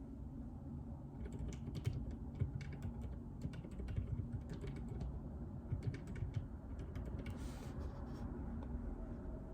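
Typing on a JJK84 mechanical keyboard with Outemu Silent Peach linear switches: irregular key presses in quick runs, with a brief rustle about seven seconds in.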